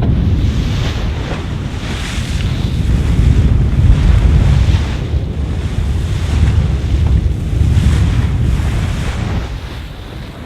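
Wind buffeting the microphone over the rush of water along the hull of a Volvo Ocean 65 racing yacht under sail, the hiss swelling and falling with each wave; it eases near the end.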